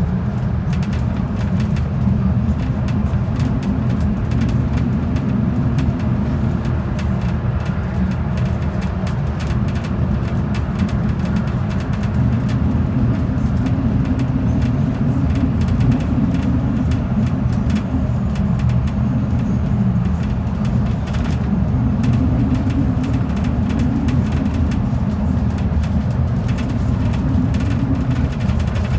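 Steady low rumble of a transit bus's engine and tyres at cruising speed, with no change in level, and a faint steady hum for a few seconds near the middle.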